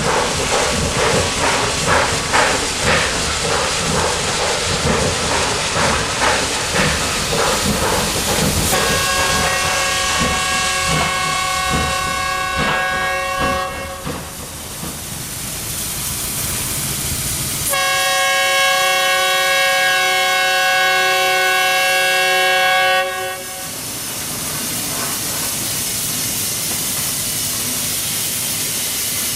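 Steam locomotive working with rhythmic exhaust beats, then its whistle sounds twice as a chord of several notes: a first blast about nine seconds in that fades away, and a louder second blast about eighteen seconds in that cuts off suddenly. Steam hisses between and after the blasts.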